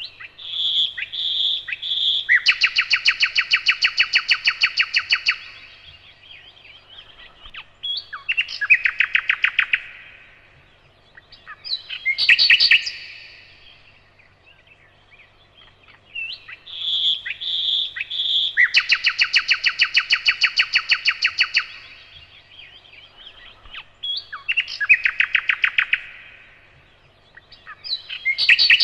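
Nightingale singing in separate phrases with pauses: a few clear whistled notes lead into a long, fast trill of about three seconds, followed by shorter trilled phrases. The same sequence of phrases starts over about halfway through.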